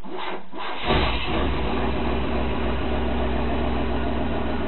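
Freshly rebuilt Chevrolet 4.3-litre V6 cranking on the starter, catching a little under a second in and settling into a steady idle on its first start after the rebuild.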